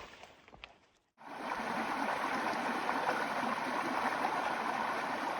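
A few faint clicks, then after an abrupt cut about a second in, the steady, even rush of a flowing mountain stream.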